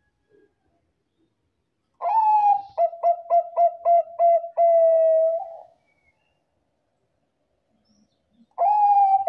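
Zebra dove (Bangkok-type perkutut) singing its cooing song: a long opening coo, a quick run of about six short staccato coos, then a long held final note. A second phrase begins near the end.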